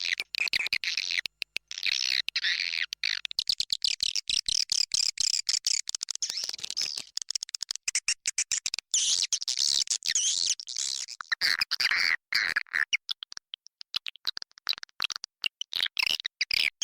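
Swiftlet lure call: a dense, rapid stream of high-pitched chirps and twittering clicks from many swiftlets, chopped into quick bursts. It is the roosting call played in swiftlet houses to draw the birds in to roost.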